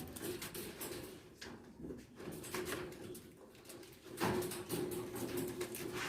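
Pigeons cooing in an aviary, a low call that comes in more strongly about four seconds in, over scattered light clicks and rustles.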